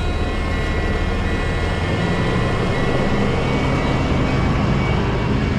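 A truck engine running steadily, with a low rumble and a steady hum that does not change much.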